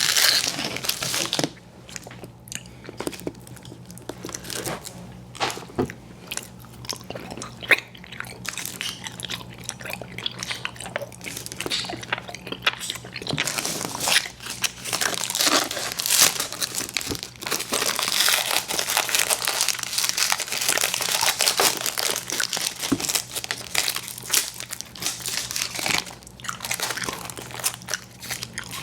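Close-miked chewing of chewy fruit candy: continuous wet mouth sounds with irregular bites and crunches.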